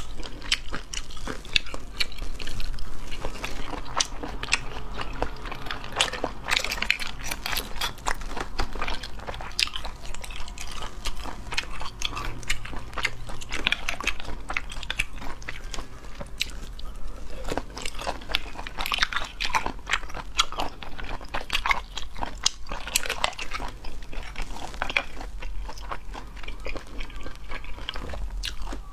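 Close-up eating sounds of cooked river snail meat being bitten and chewed: irregular crunchy bites and many short crisp clicks throughout.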